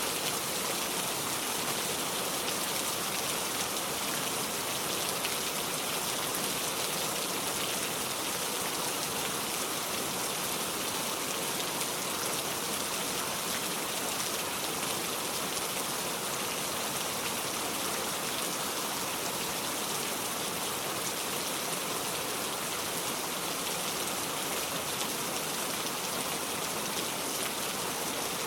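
Steady rain falling, an even hiss of many drops that does not change.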